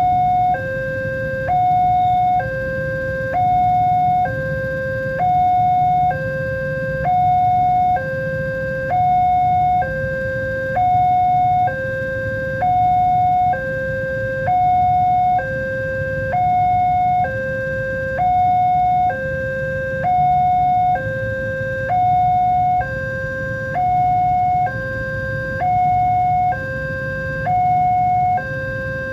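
Railway level-crossing warning alarm sounding two alternating electronic tones, high then low, each held about a second and repeating steadily, over a low rumble.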